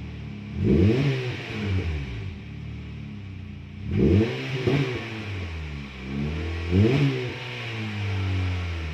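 Honda City's engine through a modified exhaust, blipped three times, each rev rising quickly and falling back to a steady idle.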